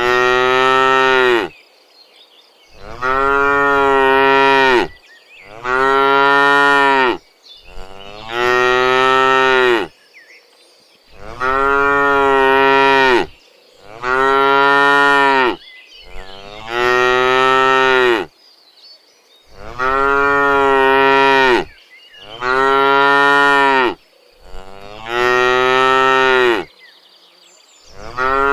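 Cattle mooing over and over: about a dozen long, pitched moos of about two seconds each, with short pauses between them.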